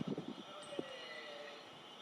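Senzan Line train running past, its noise fading away over the first second and a half, with a few low knocks near the start.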